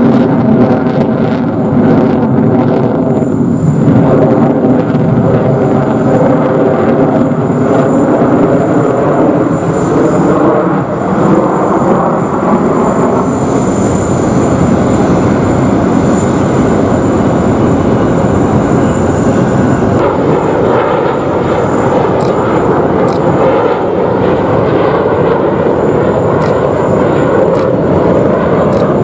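Twin General Electric F110 turbofans of a Boeing F-15QA fighter jet in a display flight: a loud, continuous jet roar with a steady high whine, its tone wavering in pitch over the first ten seconds or so.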